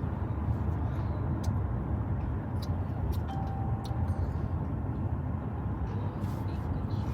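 Steady low outdoor rumble with a few faint clicks, and a brief faint thin tone about three seconds in.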